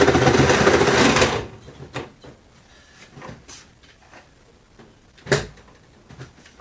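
A power tool runs under load, cutting into the refrigerator, and stops about a second in. Scattered light knocks of metal and plastic parts being handled follow, with one sharp clunk about five seconds in.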